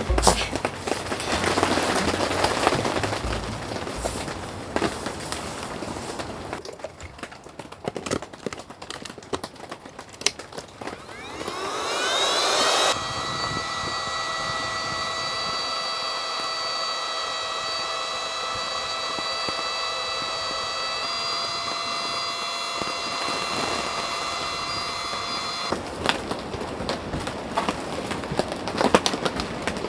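Electric air pump starting up: its motor whine rises in pitch over about two seconds, then runs at a steady pitch for about thirteen seconds before cutting off suddenly.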